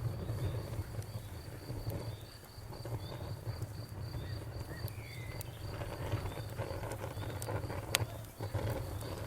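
Crickets chirping in a steady, even pulse over the low rumble of a burning bonfire, with scattered crackles and one sharp pop about eight seconds in.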